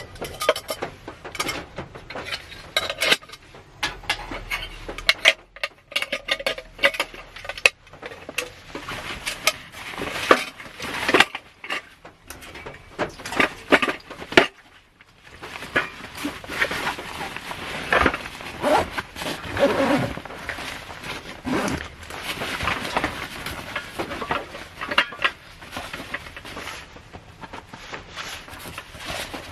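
Small objects being handled at close range: a quick, irregular run of clicks, light clinks and crinkly rustles, pausing briefly about halfway through and then running on more densely.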